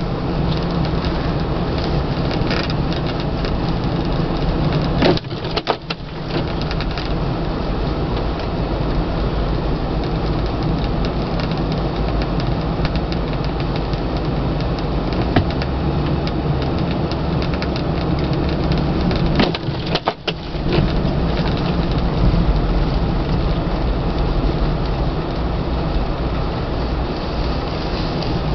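Steady vehicle engine hum and tyre noise while driving on a snow-covered road, dipping briefly twice.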